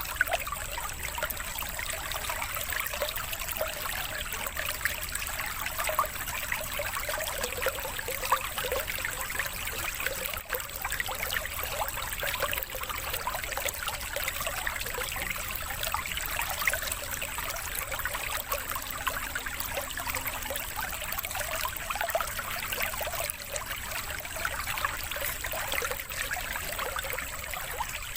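Running water trickling like a stream, steady and unbroken, laid down as the 'water therapy' background of a bird-mastering track.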